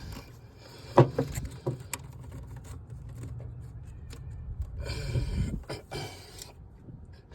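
Hand tools and metal parts clinking and knocking during work on the starter: a sharp knock about a second in is the loudest, a few lighter clicks follow, and there is a stretch of scraping and rattling about five seconds in.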